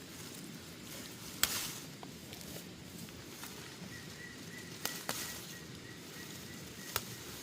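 A few sharp knocks or snaps: one about a second and a half in, a close pair about five seconds in and one near the end, over a low outdoor background with a faint thin steady tone in the second half.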